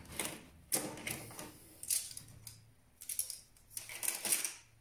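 Hands working inside a desktop PC case: about five short rustling, clicking handling noises of parts and cables, roughly one a second.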